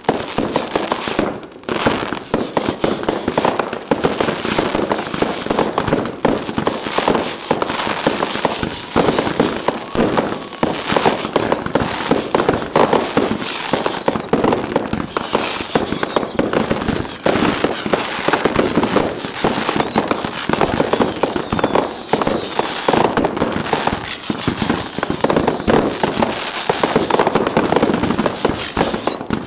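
Many fireworks going off at once: a continuous barrage of rapid bangs and crackling from aerial bursts and fountains. A short falling whistle cuts through four times.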